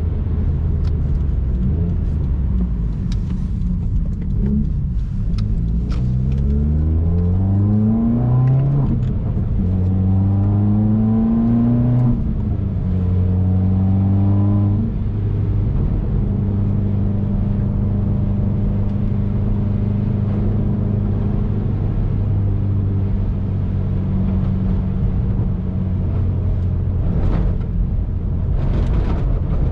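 2019 Subaru WRX's turbocharged flat-four engine accelerating through the gears, its pitch climbing and then dropping at each of three upshifts, before it settles into a steady cruise.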